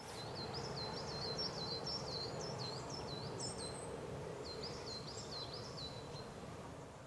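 A small songbird singing two runs of quick, high, repeated chirps, over a steady low rush of outdoor background noise.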